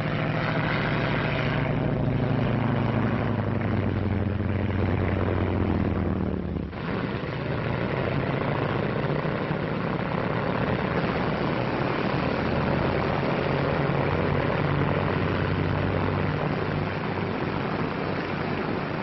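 Propeller airplane engine running, its pitch sinking slightly over the first few seconds, with a short drop in level about seven seconds in before a steady, noisier engine sound carries on. Heard through an old, narrow-band film soundtrack.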